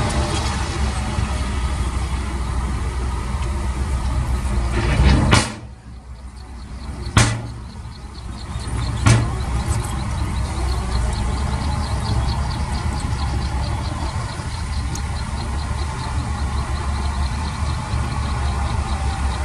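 Heavy diesel engine of construction machinery running steadily. The sound drops away suddenly about five seconds in, and sharp knocks come near seven and nine seconds before the steady running returns.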